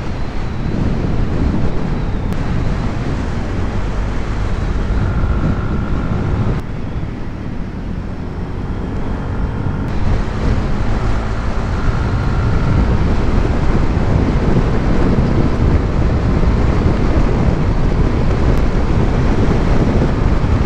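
Wind rushing over the microphone of a moving motorcycle, with the engine running underneath. The rumble eases a little about seven seconds in and builds again from about ten seconds.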